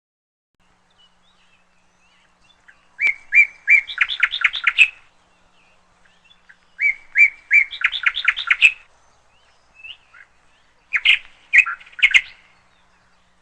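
Canary singing three short, similar phrases, each a few separate notes that run into a fast trill, with pauses between them.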